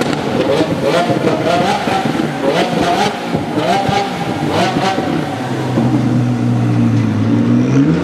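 Sports car engine revving in a quick series of short rising sweeps, as if shifting rapidly, then settling into a steady lower note that begins to climb again near the end.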